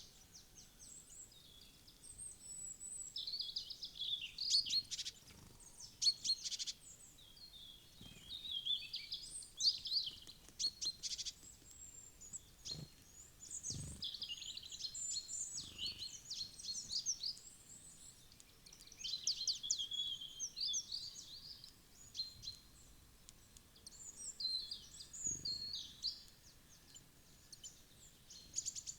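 Small wild songbirds chirping and calling, many short high notes in quick, overlapping clusters, with a few faint low thuds.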